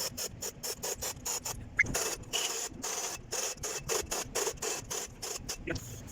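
Hand tool worked in quick repeated strokes, about four a second, a rhythmic scraping or clicking from metal work on a truck engine.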